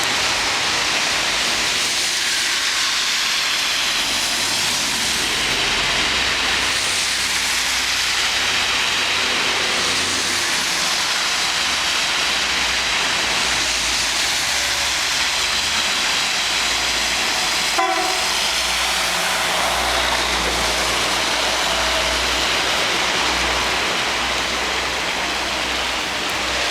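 Steady heavy rain falling, with a single sharp click about eighteen seconds in.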